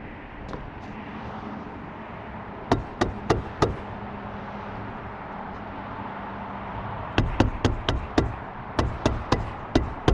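Three quick runs of sharp strikes, four or five blows each at about three to four a second, as roofing felt is tacked down onto the barn's roof deck.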